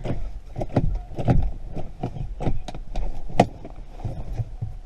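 A car key being jiggled and twisted in an ignition lock that will not turn, making an irregular run of sharp metal clicks and knocks, about three a second.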